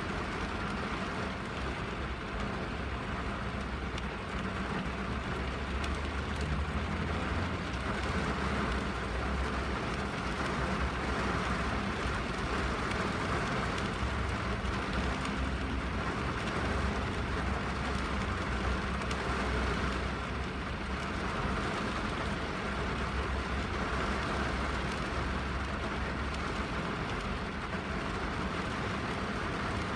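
Steady rain on a car's roof and windows, heard from inside the car: a dense, even patter with a low rumble that swells and eases.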